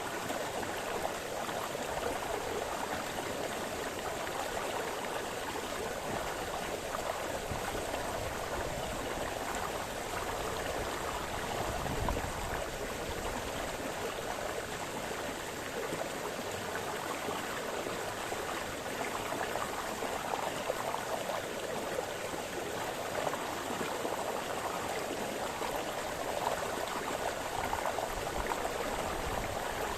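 A brook splashing and gurgling over stones, a steady rush of flowing water.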